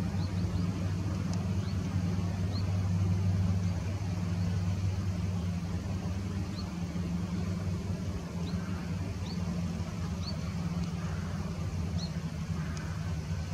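A steady low drone, like a distant engine, with short, high, rising bird chirps heard about a dozen times, scattered through it.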